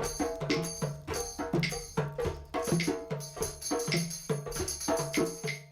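Drum session: hand-struck drums with jingling percussion keep up a fast, steady rhythm of repeated strokes.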